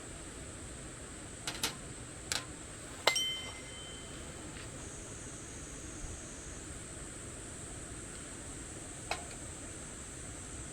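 A few light clinks of metal or glass tableware, four close together in the first few seconds and one more near the end. The loudest, about three seconds in, rings briefly.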